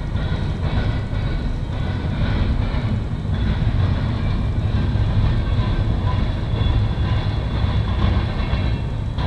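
Freight train cars rolling past at steady speed: a continuous low rumble of steel wheels on rail with faint thin high tones from the wheels and cars over it.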